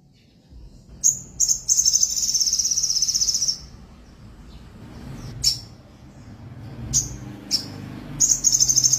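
Sogon songbird singing: a fast, high-pitched, buzzing trill lasting a couple of seconds, then a few short sharp notes, then the trill starts again near the end.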